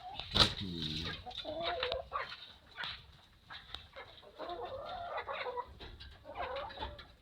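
Domestic hens clucking, a run of separate calls with the loudest about half a second in.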